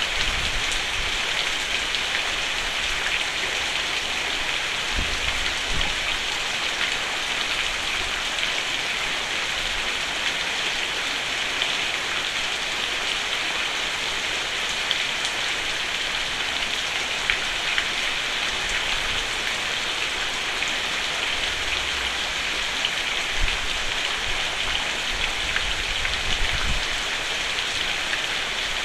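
Steady rain falling on a roof: a dense, even patter with scattered individual drop ticks and a few brief low rumbles.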